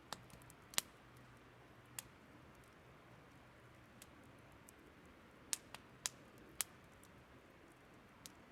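Burning wood crackling: sharp, irregular pops and snaps over a faint steady hiss, with a cluster of louder pops past the middle.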